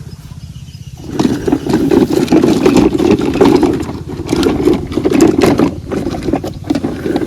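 Vehicle engine running with a steady low throb; about a second in it becomes much louder, with knocks and rattles on top, and drops back near the end.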